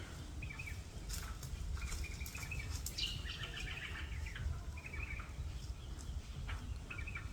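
Small birds chirping, many short calls scattered throughout, over a steady low rumble on the microphone.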